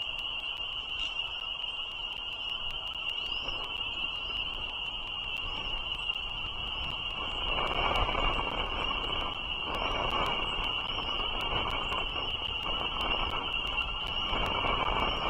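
Outdoor ambience at a bald eagle nest. A steady, high-pitched ringing chorus, typical of a dense frog chorus, runs throughout, with short chirps repeated about once a second above it. From about halfway a rushing noise swells and fades in waves over it.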